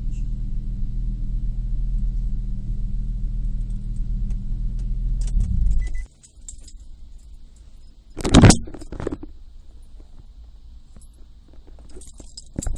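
The 2002 Nissan Maxima's VQ35DE V6 idles steadily, then is switched off about six seconds in and cuts out abruptly. About two seconds later comes a loud jangle of keys, followed by a smaller rattle and light clicks.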